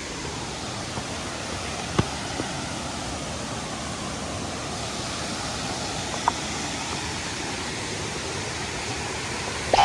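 Waterfall rushing steadily, with one sharp click about two seconds in.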